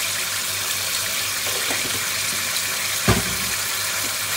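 Beef bones sizzling steadily as they fry in hot oil and vinegar in a pressure cooker pot, with a single knock about three seconds in.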